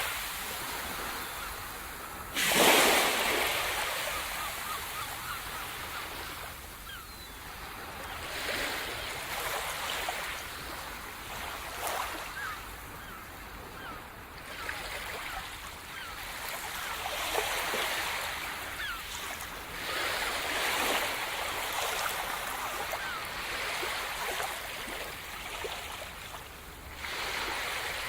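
Sea surf washing onto a shore, the waves swelling and ebbing every few seconds, with one loud wave crash about two and a half seconds in.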